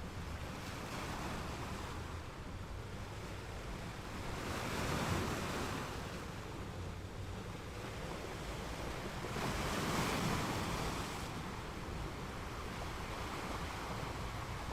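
Ocean waves washing in over a steady surf, with two waves swelling louder about five seconds apart.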